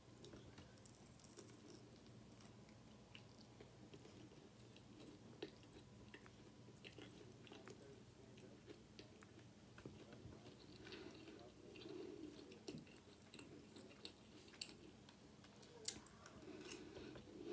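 Faint chewing of fried chicken and rice, with scattered light clicks of a metal fork against the plate.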